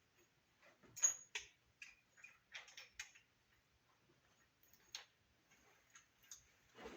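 Light metal clicks and taps of small engine parts being handled and fitted during valvetrain assembly, irregular, with the loudest about a second in and a quick cluster a little later.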